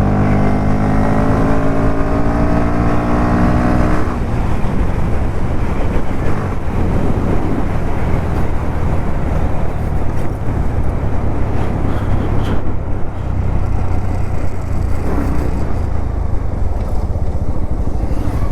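Motorcycle riding on the road, heard from a helmet-mounted camera: for about the first four seconds the engine note rises steadily under acceleration. It then cuts off abruptly into steady running, dominated by a low hum and the rush of wind and road noise.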